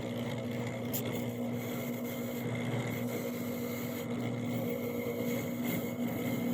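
An electric motor running steadily with a constant hum, with a faint tick about a second in.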